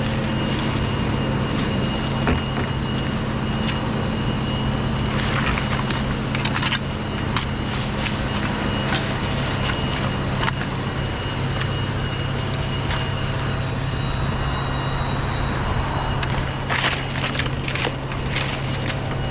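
A motor running steadily, with scattered cracks and rustles over it.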